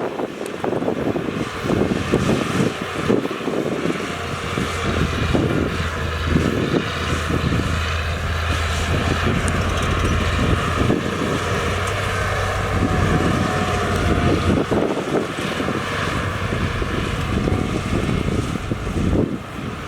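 Diesel engine of heavy earthmoving machinery running steadily, with wind noise on the microphone. The engine hum is strongest through the middle.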